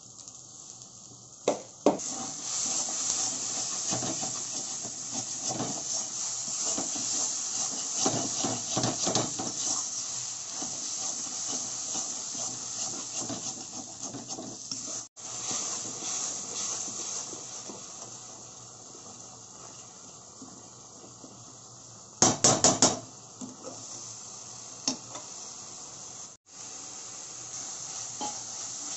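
Chicken and spice masala sizzling in oil in a pan while it is stirred, the spatula knocking and scraping against the pan, with a quick run of sharp metal taps about two-thirds of the way through. The meat is being kosha-fried, cooked down dry in the masala.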